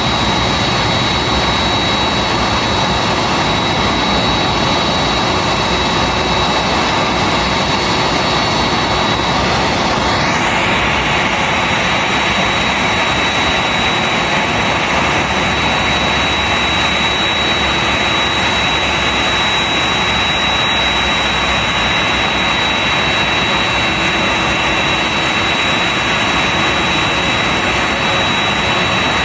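Boeing 787-8's Rolls-Royce Trent 1000 turbofans running with a loud, steady rush and a high whine. About a third of the way in a tone sweeps quickly upward and the whine then settles at a slightly different pitch.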